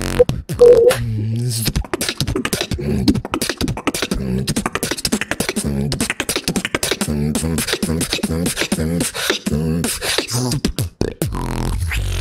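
Beatboxing: a fast, unbroken run of mouth-made drum hits and clicks over a pulsing vocal bass line.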